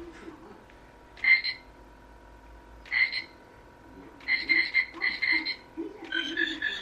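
Short rasping, frog-like croaks: single croaks about a second in and at three seconds, then quicker runs of croaks in the second half.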